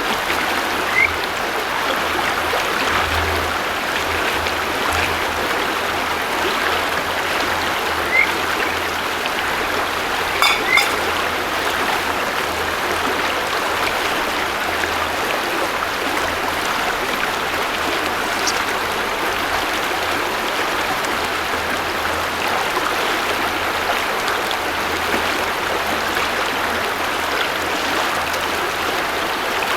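River water flowing steadily over stones, an even rushing. A few brief high chirps stand out over it.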